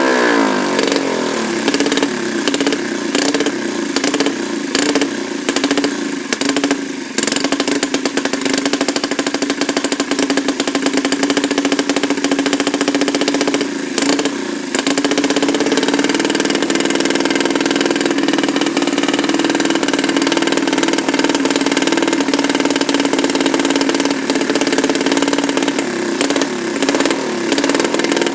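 Underbone motorcycle's single-cylinder four-stroke engine breathing through an aftermarket galvanised-steel racing exhaust, blipped repeatedly so the revs rise and drop. About halfway through it settles into a steady idle, with a few more blips near the end.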